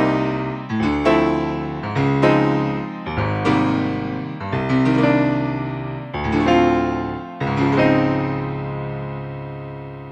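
Kurzweil K2500R synthesizer playing a factory preset with an electric-piano-like tone, dry with no effects. Chords are struck one after another in a slow rhythm, each fading away, and the last one is left to fade out.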